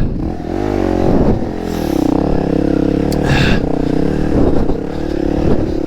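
Dirt bike engine running hard under load on the throttle, its pitch dropping and rising again as the revs change.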